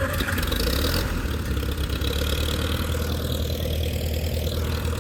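Old tractor engine running steadily at idle just after starting, with a low, even rumble; it cranked right up.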